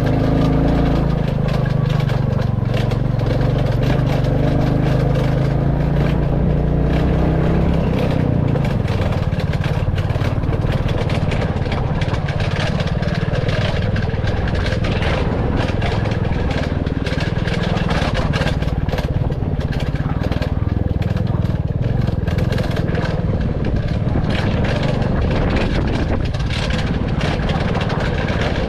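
Royal Enfield Classic 350's single-cylinder engine running while the motorcycle is ridden, with wind and road noise over it. The engine note changes about eight seconds in.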